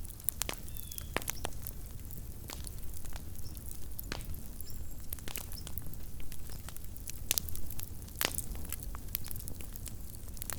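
Campfire of burning wood crackling: irregular sharp pops and snaps, a few at a time, over a steady low rumble.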